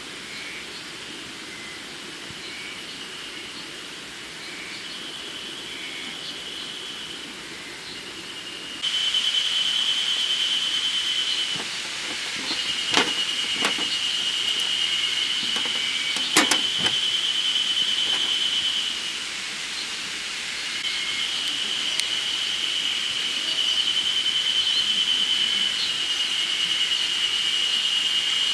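Spring cicadas singing in a steady high-pitched chorus, in long phrases that swell and break off every few seconds, with a few sharp clicks in the middle.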